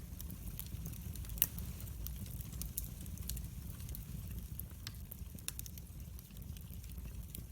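Wood fire burning in a fireplace, crackling with many scattered sharp pops over a low steady rumble; one pop about a second and a half in is louder than the rest.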